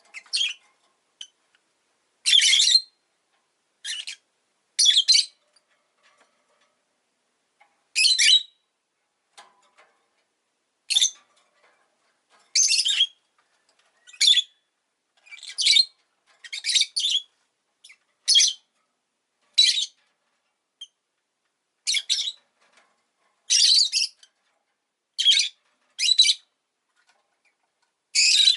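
Rosy-faced lovebird giving short, shrill chirping calls over and over, one every second or two, with brief silences between.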